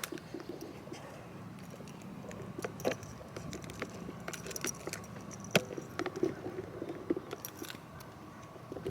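Scattered light clicks and rattles of a camera being handled and turned around on its tripod, over a faint steady outdoor background.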